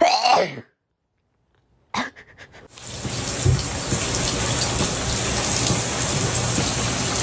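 A short voice-like sound, then a pause and a few clicks. From about three seconds in comes a steady, even rushing noise with a low hum beneath it, much like rain.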